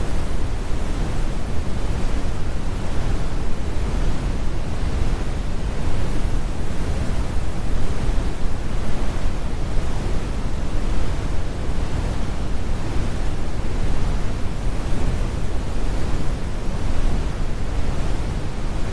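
Synthetic brown noise: a steady, even rumble with most of its energy low and the high end rolled off, unchanging throughout.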